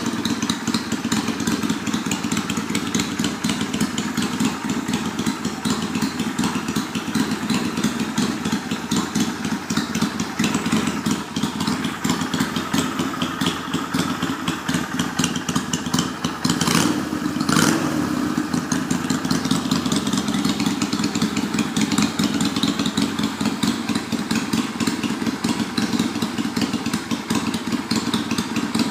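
Yamaha Virago's V-twin engine running at idle through drag-pipe exhausts, a steady, rapid pulsing exhaust note. It gets briefly louder a little after halfway through.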